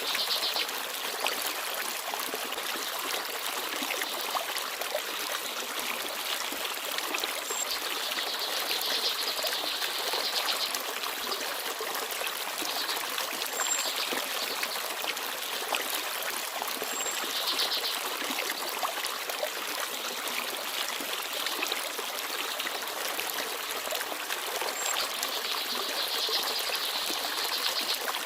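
Small forest stream babbling and trickling steadily.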